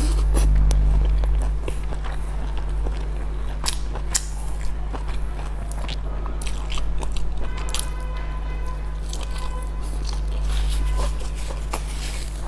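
Close-up eating sounds: biting into and chewing a large steamed dumpling, with wet mouth clicks and smacks scattered throughout, over a steady low hum.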